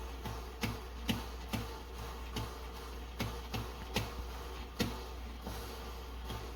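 Electric coffee percolator perking: short sharp pops about two to three times a second as boiling water spurts up the stem into the basket, over a steady low hum.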